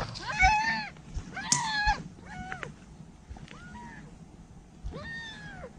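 A cat meowing repeatedly: about five separate meows, each rising and then falling in pitch. The first two are the loudest and the later ones are fainter.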